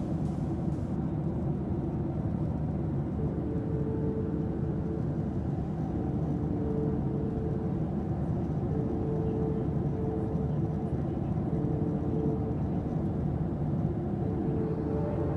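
Boeing 737 airliner cabin noise in flight: a steady low drone of jet engines and airflow, with faint humming tones that come and go.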